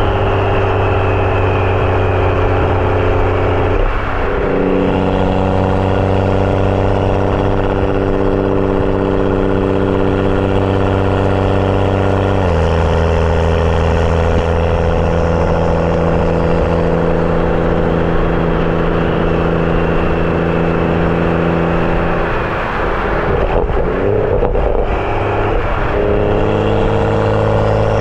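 BMW F30 335i's turbocharged straight-six (N55) with a catless downpipe and M Performance exhaust, driving at a steady, droning engine note. The pitch steps abruptly about four seconds in and again about twelve seconds in, then wavers for a few seconds near the end before settling.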